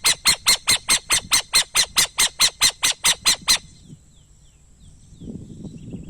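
An owl giving a rapid series of harsh, screechy calls, about five a second, that stop abruptly about three and a half seconds in. Faint chirps of other birds follow, with a low rumble near the end.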